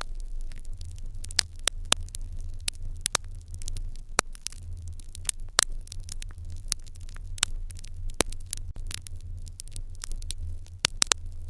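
Fire in an irori hearth crackling, with frequent irregular sharp pops over a steady low hum.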